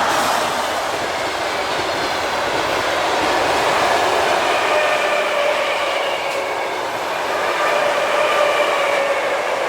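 Electric train passing close by on the line, a steady loud roar of wheels on rails with a faint high whine running through it from about halfway.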